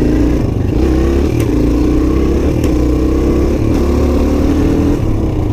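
Suzuki DR-Z125's single-cylinder four-stroke engine running as the bike is ridden, its pitch wavering up and down a little with the throttle.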